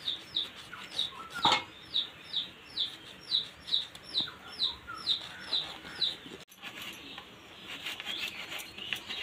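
A bird chirping over and over, a short high note falling in pitch about two and a half times a second, stopping about six seconds in. A single sharp knock comes about a second and a half in.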